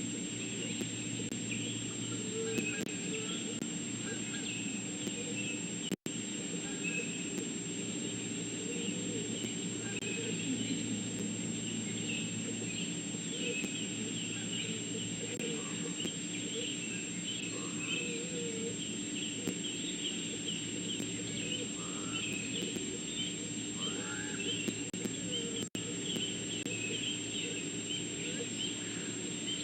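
Outdoor ambience of many small bird chirps over a steady hiss and hum, with two very brief dropouts where the sound cuts out, about six seconds in and near the end.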